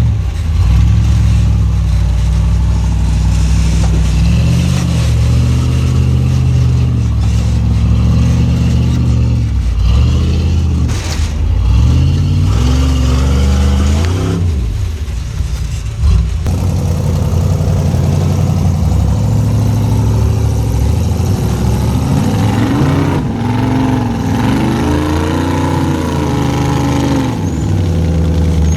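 Off-road rock crawler's engine revving up and down in repeated bursts while crawling over boulders, with a sharp knock about sixteen seconds in.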